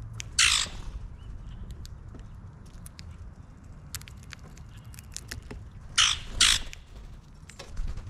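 Harsh bird squawks: one about half a second in, then two in quick succession about six seconds in, with scattered light clicks and taps between them.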